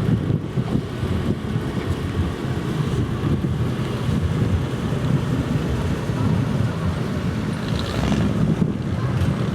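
Low, steady rumble of car engines running as vehicles drive slowly past, with wind buffeting the microphone.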